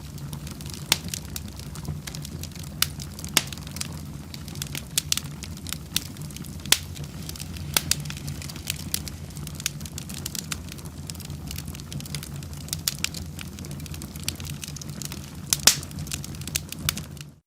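Wood fire in a fireplace crackling: frequent sharp, irregular pops over a steady low rumble, with a cluster of louder pops near the end. The sound cuts off suddenly just before the end.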